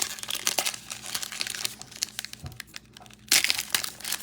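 Plastic wrapper of a trading card pack crinkling as it is handled and torn open, with a louder burst of crinkling a little over three seconds in.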